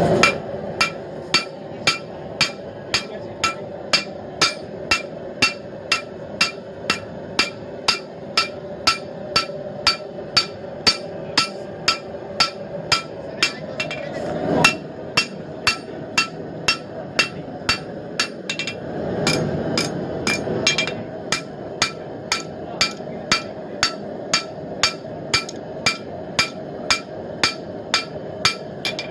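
Hand hammer striking hot blade steel on an anvil in a steady forging rhythm, a little under two blows a second, each blow with a bright metallic ring.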